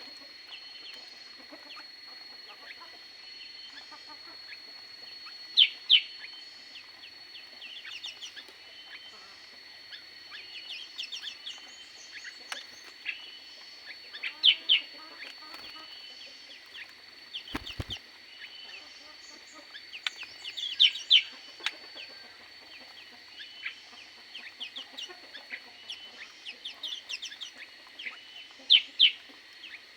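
Aviary birds calling: many short chirps with a loud double call every several seconds, over a steady high tone. There is a single sharp click about halfway through.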